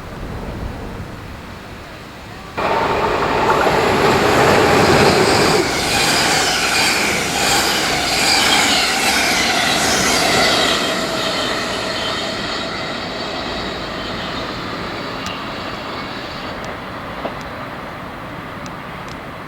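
Train running through a railway station: a loud rush of wheels on rails with high squealing tones, which cuts in suddenly a few seconds in and then slowly fades.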